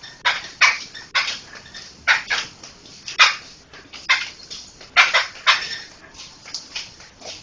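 Poksay (laughingthrush) calling in a run of short, harsh notes, about two a second, in loose groups with brief gaps.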